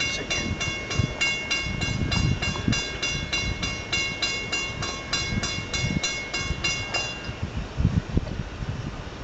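Railroad grade-crossing bell ringing about three times a second, stopping about seven seconds in, over the low rumble and clatter of the Strasburg train rolling past.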